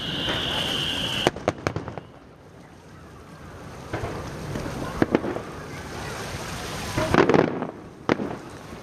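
Display fireworks going off. A high, steady whistle cuts off about a second in with a sharp bang, then single bangs follow every few seconds, with a dense cluster of bangs and crackling near the end.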